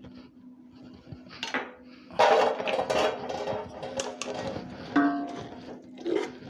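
Metal utensil scraping and clinking against a cooking pan, loud and clattery from about two seconds in, with background music underneath.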